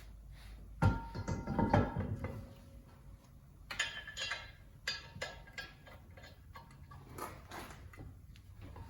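A bare wheel rim being handled and set against the car's hub: a loud cluster of metal clanks with short ringing about a second in, then a few single knocks and clicks.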